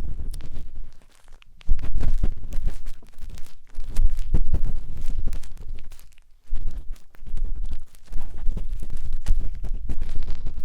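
A matchstick scratching and rubbing inside the silicone ear of a 3Dio binaural microphone: dense crackling strokes with a heavy low rumble. It pauses briefly about a second in and again around six seconds.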